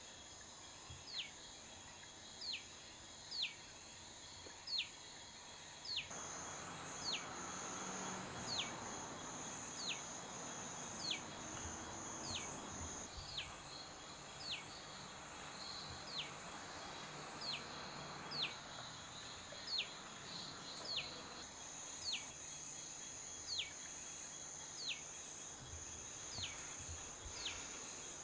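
A bird repeating a short falling whistle about once a second, over a steady high-pitched insect drone.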